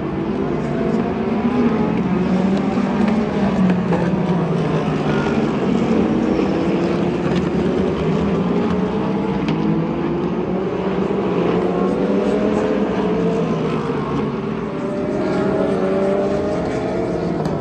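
Several sports-prototype and GT race car engines running at speed on track, their pitches climbing and falling as they accelerate and change gear, overlapping one another.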